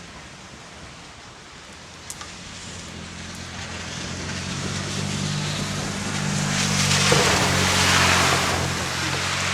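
Rain falling, with a rushing swell that builds over several seconds and peaks near the end, over a low steady hum.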